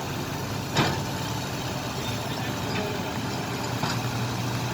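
Heavy vehicle engine running steadily on a slippery climb out of a muddy pit, with a single sharp knock about a second in.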